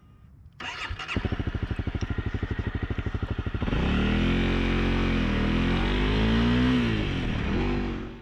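Honda CRF250 Rally's single-cylinder engine starting about half a second in and idling with an even beat, then revving up and down with rising and falling pitch as the bike pulls away.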